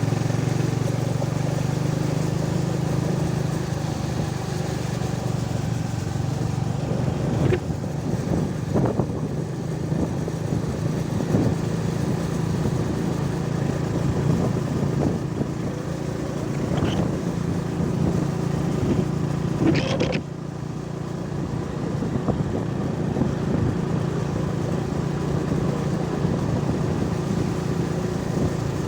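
A motor vehicle's engine running steadily on the move, with a few sharp knocks and rattles. The engine note drops slightly about twenty seconds in.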